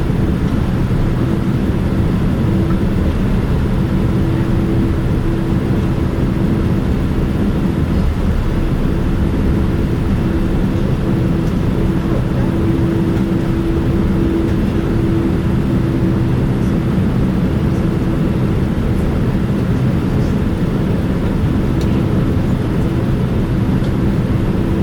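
Steady cabin noise inside a Boeing 787-9 jetliner: the engines and airflow give a constant low hum, with a few steady tones held throughout and no change in power.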